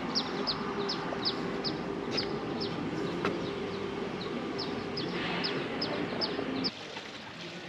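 A bird calling over and over in short, high, downward chirps, about two or three a second, stopping shortly before the end. Beneath it a steady low hum runs and cuts off suddenly near the end.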